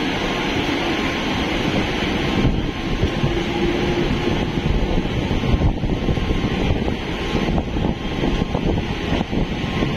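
Electric multiple-unit suburban local train running along the track: a steady rumble and rush of wheels on rail, with a few knocks near the end.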